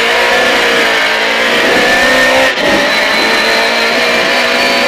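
Lada 2107 rally car's inline-four engine pulling hard under full throttle, heard from inside the cabin. The engine note climbs steadily, with a short break about halfway through at a gear change.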